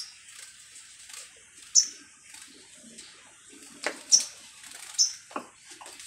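Small bird giving three short, high-pitched chirps a second or two apart, with a few faint knocks between them.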